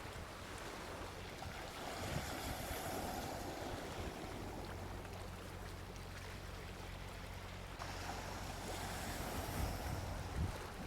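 Gentle sea waves washing onto a beach, the surf swelling twice, with a soft low thump as a wave breaks near the end.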